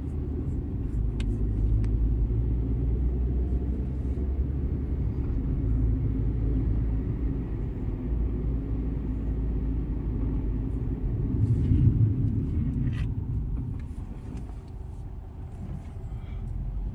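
A moving car's steady low engine and road rumble, heard from inside the cabin, swelling briefly about two-thirds of the way through.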